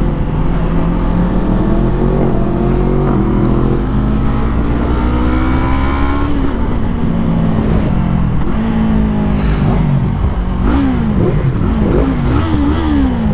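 Sportbike engine accelerating hard, its pitch climbing in steps through the gears for about six seconds, then easing off; near the end the revs rise and fall quickly several times. A steady low rumble runs underneath.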